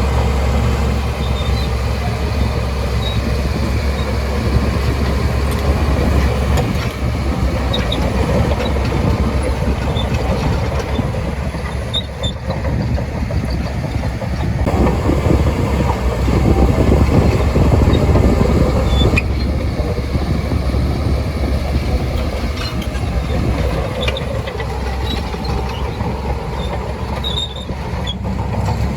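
Shantui DH17C2 crawler bulldozer working: its diesel engine runs steadily under load with a deep rumble that swells louder about halfway through, while its steel tracks clank and squeak.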